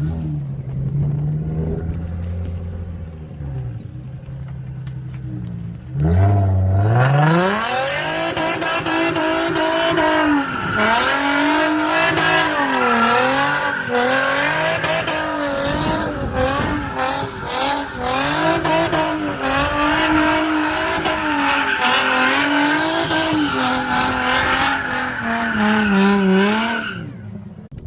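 A car engine running at low revs. About six seconds in it revs up sharply and is held high, the revs rising and falling, while the tyres squeal as in donuts or a burnout. It drops off near the end.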